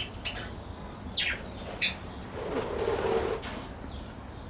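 Parakeets chirping: a few short, sharp chirps in the first two seconds, then a lower warbling call. A steady, evenly pulsing high trill runs behind them.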